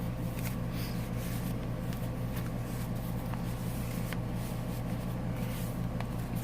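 Steady low background hum with a few faint ticks, the sound of paper journal pages and tags being handled.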